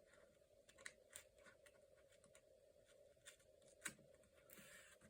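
Faint handling of paper and sticker sheets: scattered light taps and small clicks, with a soft rustle of paper near the end.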